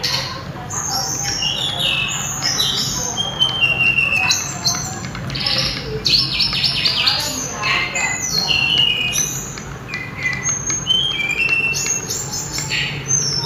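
A sulingan (tledekan gunung, Sunda robin) singing continuously: strings of clear, high whistled notes, many phrases stepping down in pitch, with a steady low hum beneath.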